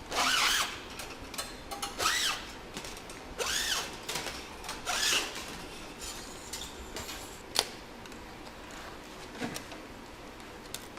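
MIG welder's wire-feed motor running in four short spells in the first five seconds, each rising and falling in pitch, as new 0.030 wire is fed through to the gun. A single sharp click comes about seven and a half seconds in.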